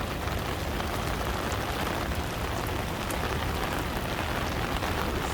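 Heavy rain coming down steadily, a dense even hiss of falling drops.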